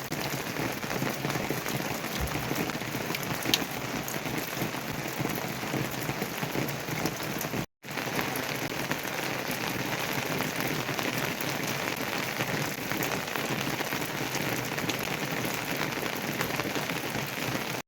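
Heavy monsoon rain falling steadily, a dense even hiss, broken by a brief silent dropout about eight seconds in.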